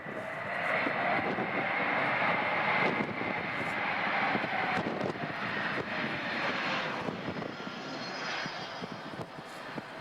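Airliner's engines passing close by: a steady high whine over a lower tone that bends slightly in pitch. The sound swells quickly at the start and slowly fades.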